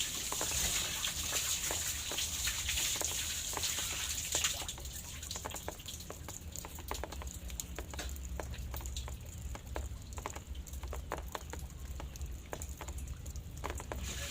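Light rain: scattered drops pattering and dripping, with a hiss of drizzle that eases about four seconds in, leaving mostly separate drips over a low steady hum.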